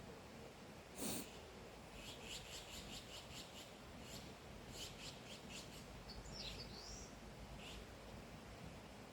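A wild songbird chirping in quick runs of short high notes, about five a second, with a brief swooping call in the second half. A short rustle sounds about a second in, louder than the birdsong.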